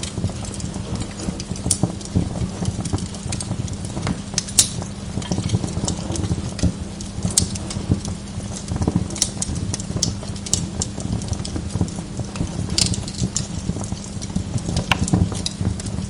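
Wood log fire crackling in a fireplace: irregular sharp pops and snaps, sometimes several in quick succession, over a steady low rumble.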